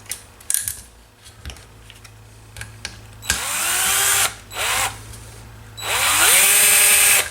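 Small electric screwdriver driving the 3 x 12 mm screws that fix the landing gear to the helicopter's lower frame: two runs of about a second each, with a short burst between them, the motor whine rising as it spins up and then holding steady. Light clicks of small parts being handled come before.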